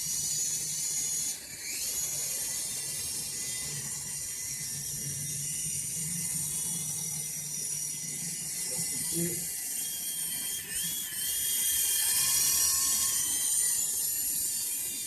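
UWING U12S mini RC helicopter's small electric motors and rotors running in flight: a steady high-pitched whine of several tones, dipping briefly in pitch and recovering about two seconds in and again near eleven seconds.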